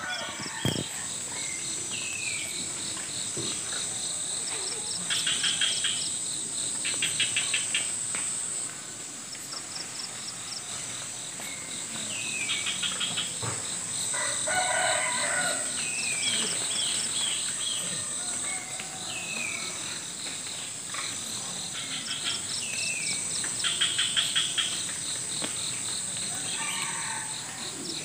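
Village morning chorus: crickets and other insects keep up a steady high drone with trains of pulsing chirps, while small birds chirp and twitter throughout. A chicken calls once about halfway through.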